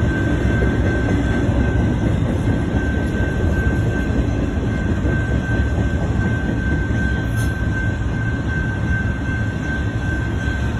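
Autorack freight cars of a long freight train rolling past: a steady rumble of wheels on the rails, with a thin, steady high squeal over it.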